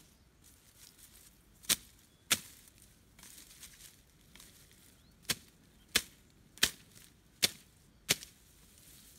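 Sharp chopping strikes: two, then after a pause five more, each about half a second to a second apart.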